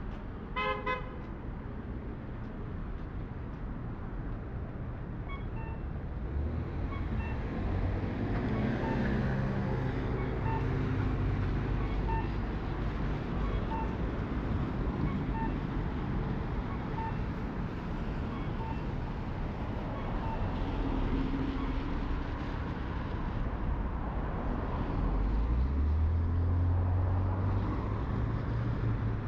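City street traffic: cars and heavier vehicles passing with a steady engine rumble that swells twice. A faint beep repeats about once a second through the middle, and a short pitched tone sounds near the start.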